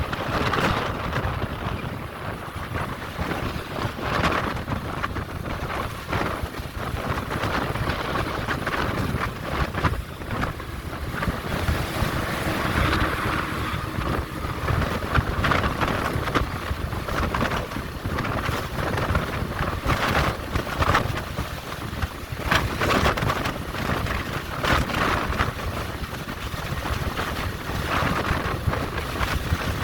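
Strong wind buffeting the microphone: a continuous rushing noise that rises and falls in gusts.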